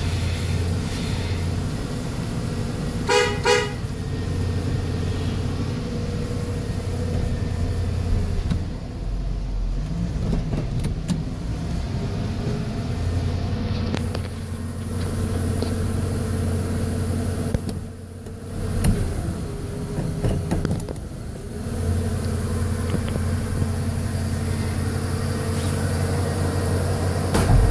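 1991 Ford F-150's engine idling steadily just after a cold start, with a quick double beep of the horn about three seconds in.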